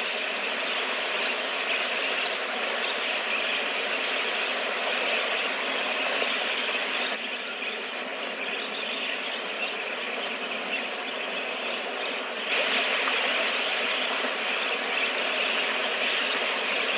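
Dense massed chatter of a large budgerigar flock gathered to drink, a continuous wash of many overlapping chirps. The sound drops a little about seven seconds in and comes back louder about twelve seconds in.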